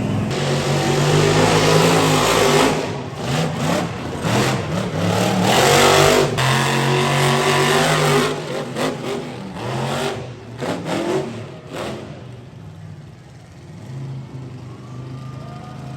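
Monster truck engine revving hard, its pitch rising and falling repeatedly, with choppy throttle blips before it dies down about twelve seconds in.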